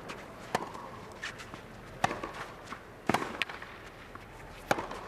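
Tennis rally on a clay court: a handful of sharp racket strikes on the ball, about a second or more apart, with lighter ball bounces and footsteps between, over a quiet stadium crowd.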